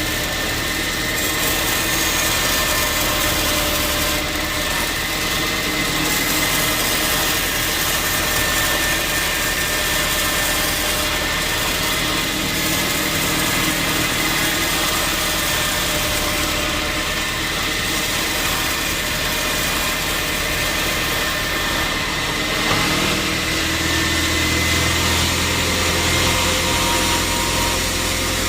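Sawmill machinery running steadily, a continuous mechanical drone with a steady high tone over it. The low hum grows stronger about three-quarters of the way through.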